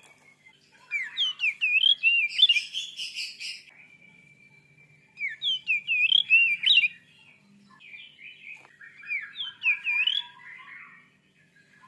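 Oriental magpie-robin (kacer) singing in three bursts of quick, sweeping whistled notes. The first burst includes a harsh, rattling passage, and a thin held whistle joins it to the second.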